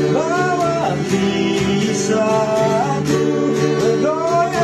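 An Indonesian-language pop song: a voice singing slow, long-held notes of the chorus over a strummed acoustic guitar backing.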